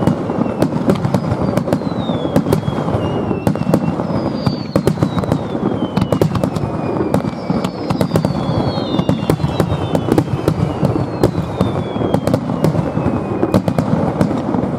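Fireworks display going off in a dense barrage: a continuous rumble of bursts with sharp crackling pops throughout, and several high whistles that fall in pitch.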